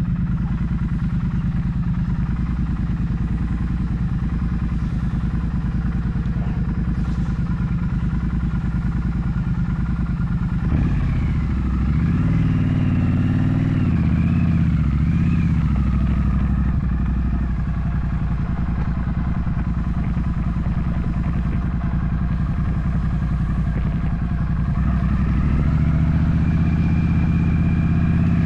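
Triumph Street Twin 900's parallel-twin engine running on the move. Its pitch wavers up and down for a few seconds starting about ten seconds in, then rises near the end as the bike accelerates.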